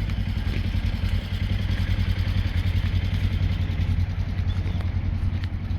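A small vehicle engine running steadily with a low, even hum.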